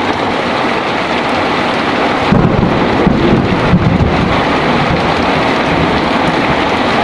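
Heavy rain falling steadily, with a low roll of thunder starting about two seconds in and rumbling on for about two seconds before it dies back into the rain.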